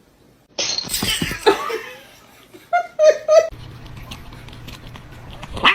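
A person laughing: breathy bursts starting about half a second in, then three short quick laughs around three seconds in.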